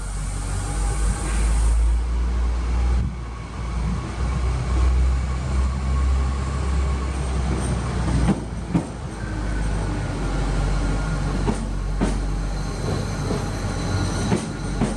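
SNCF X 76500 AGC diesel multiple unit running slowly along the platform, with a deep steady engine and running rumble. About halfway through its wheels start clicking over rail joints, and a thin high wheel squeal sounds over the last few seconds.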